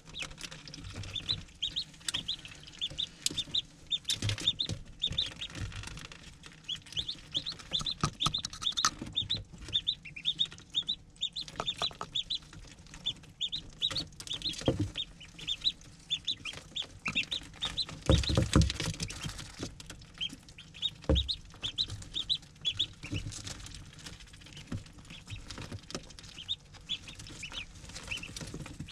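A group of ducklings peeping continuously, many short high-pitched peeps overlapping, with scattered knocks and bumps, the loudest about two-thirds of the way through.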